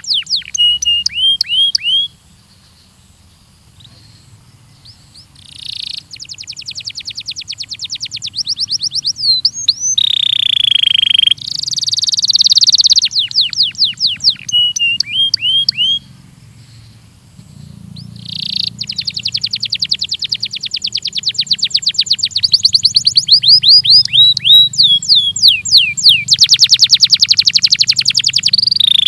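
Domestic canary (canário belga) singing: fast rolling trills of rapidly repeated notes alternating with short falling whistled sweeps, in phrases broken by pauses of a few seconds.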